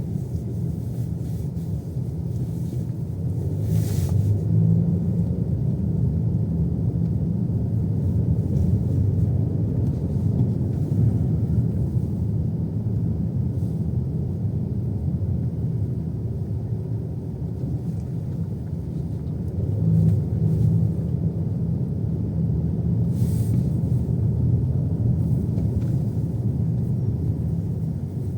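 Car interior while driving: steady low rumble of engine and tyre road noise, with a few faint clicks.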